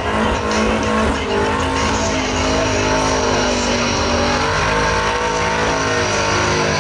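Holden HQ one-tonner's 383 cubic-inch V8 held at high revs in a burnout, its rear tyres spinning and squealing on the track. The engine note stays loud and steady throughout.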